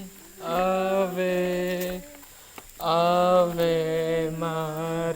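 Slow hymn to the Virgin Mary sung in Tagalog, drawn out in long held notes, with a short break about two seconds in.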